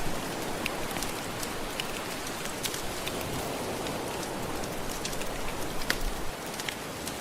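Gentle ocean waves washing steadily, with a wood fire crackling over them in frequent small, irregular pops.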